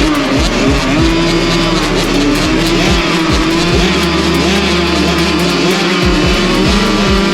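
Youth 65cc two-stroke motocross bikes racing, their engines revving up and down as they ride, with background music underneath.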